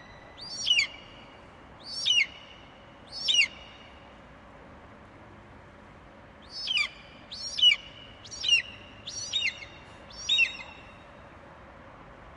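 Eagle giving high, shrill screeching calls, each a quick note that falls steeply in pitch. There are three calls about a second apart, then a pause of about three seconds, then a faster run of five.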